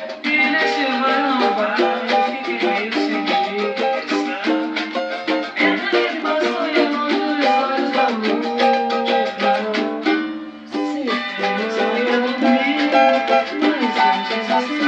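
Cavaquinho playing an instrumental passage of quick plucked and strummed notes between sung verses, with a brief break about ten seconds in.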